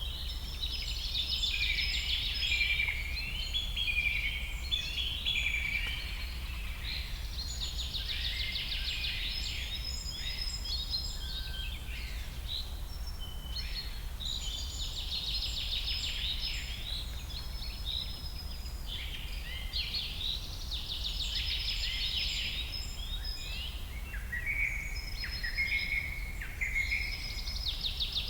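Songbird singing repeated phrases of rapid trills and chirps, a new burst every six or seven seconds, over a steady low rumble.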